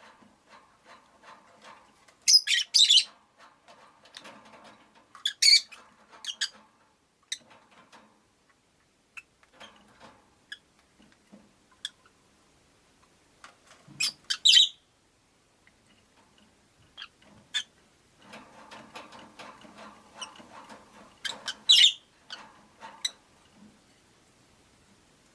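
Rosy-faced lovebirds chirping: short, loud, shrill calls in clusters about two and a half, five and a half, fourteen and twenty-two seconds in, with scattered softer chirps between.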